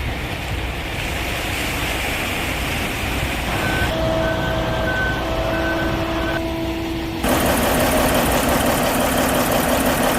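Volvo A40G articulated haul truck's diesel engine running, with its reversing alarm beeping about five times midway. About seven seconds in the engine gets suddenly louder and stays so.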